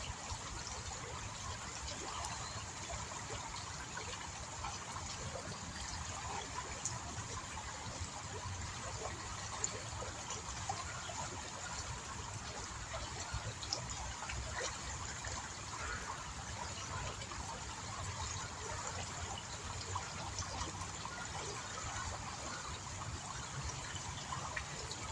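Small stream running and trickling steadily.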